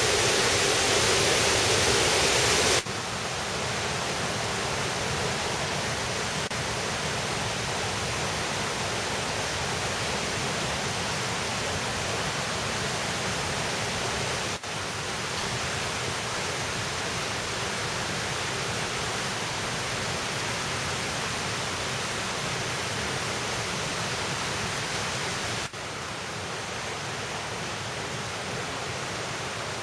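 Steady rushing of a valley stream's white water. The level steps down abruptly three times, about three, fifteen and twenty-six seconds in, as if the recording cuts between spots.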